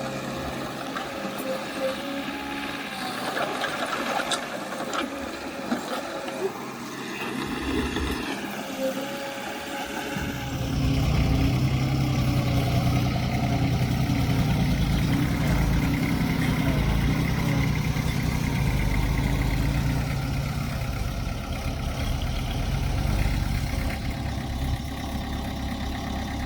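Diesel engine of heavy earthmoving machinery running, with scattered clanks in the first part. About ten seconds in a much louder, deeper engine sound takes over and holds steady.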